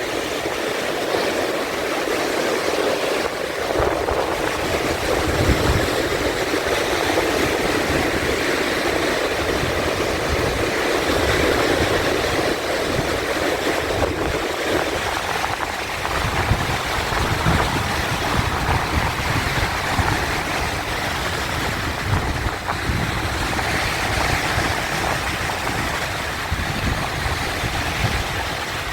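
Sea waves washing and churning, a continuous rush of water with a deeper rumble that strengthens about halfway through.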